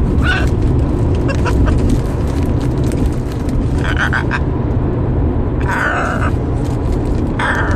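Pet bird babbling in short bursts: one near the start, one about four seconds in, a longer one near six seconds and another near the end. A steady low rumble runs underneath.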